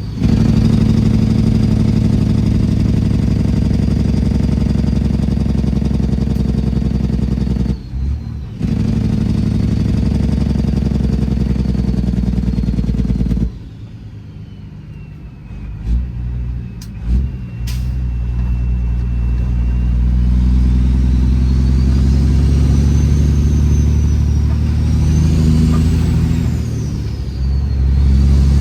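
Straight-piped Detroit Series 60 diesel of a Peterbilt 389 running loud under load, with turbo whistle gliding over the exhaust note. It briefly dips about eight seconds in and drops off sharply about halfway through. It then builds back up as the truck pulls again, the turbo whistle rising.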